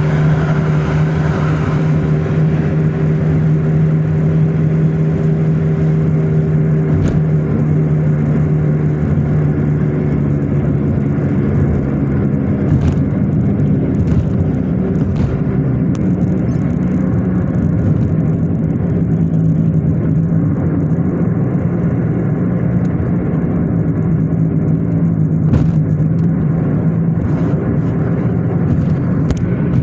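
Car engine and tyre noise while driving: a steady engine hum over road rumble, its pitch rising slightly about halfway through, with a few faint clicks.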